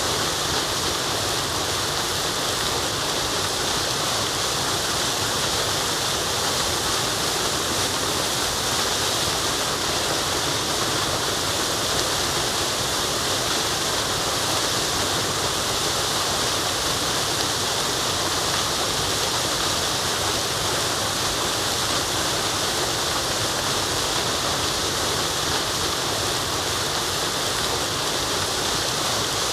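Forest waterfall: a steady, unbroken rush of falling water, with most of its hiss in the high end and no change in level.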